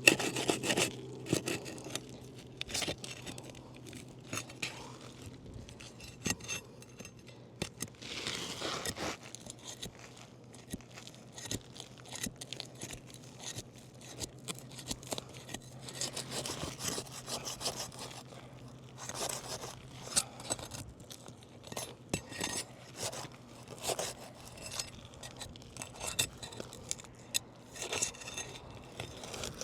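Asphalt roof shingles being pried up with a pry bar: irregular scraping, tearing and clicking as the sealed shingles are forced loose and get damaged coming up. A steady low hum runs underneath.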